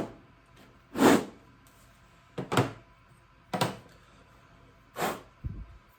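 A series of dull knocks, about one a second, from hand work with metal tools and parts on a tractor's steering cylinder.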